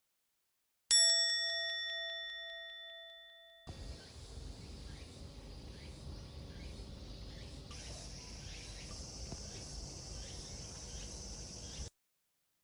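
A single bell-like ding that rings and fades over about three seconds, followed by outdoor ambience with faint, evenly repeated chirps and a steady high hiss, which cuts off abruptly near the end.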